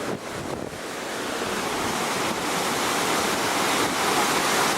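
Storm surf from a tropical storm rushing in along the beach, with wind buffeting the microphone; the rush of water swells gradually over the first few seconds.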